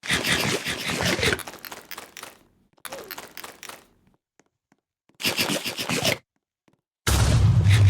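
Crinkling and rustling of a plastic chip bag being handled, in four bursts, the last with a low bump.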